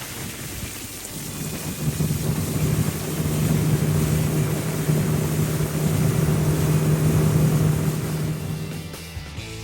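Watercraft engine running steadily at speed, a steady hum over rushing water and wind noise, building up about a second in and dropping away near the end.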